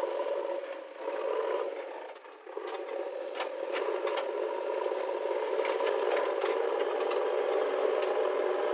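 A JCB 3DX backhoe loader's diesel engine running steadily, dipping briefly about two seconds in, with scattered sharp clicks and rattles from about three seconds in as it works the mud.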